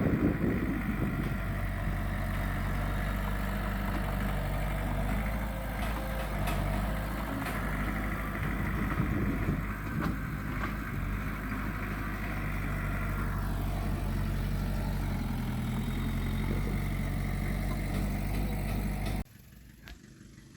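A heavy diesel engine of earthmoving machinery running steadily, then cutting off abruptly near the end.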